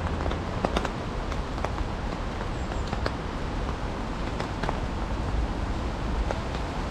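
Rain falling, with irregular sharp ticks of nearby drops over a steady hiss and a low rumble.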